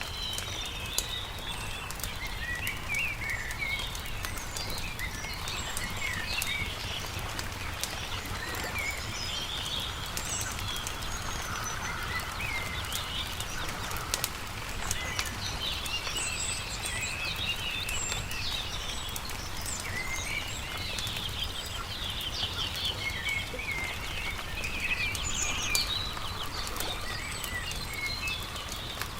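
Several small birds chirping and trilling continuously, with the sparse sharp pops of a crackling wood campfire over a low steady rumble.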